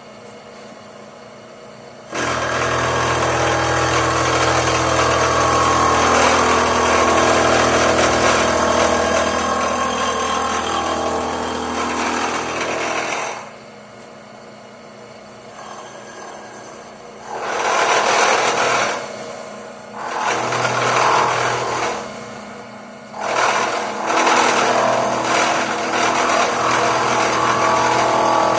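Power tool working the high spots on a gas-welded cast iron exhaust manifold: one long run of about eleven seconds, then three shorter bursts.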